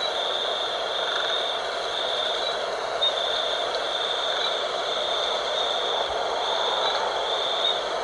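Steady night wind rushing, with a high-pitched insect trill pulsing on and off about once a second.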